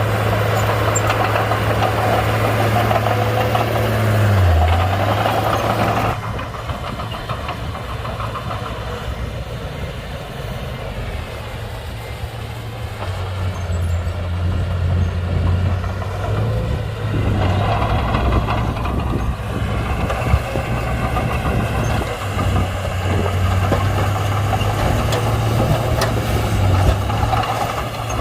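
Komatsu D31-P bulldozer's diesel engine running steadily as the dozer works. Its note dips briefly about four seconds in. The sound drops suddenly quieter about six seconds in and builds back up from about thirteen seconds.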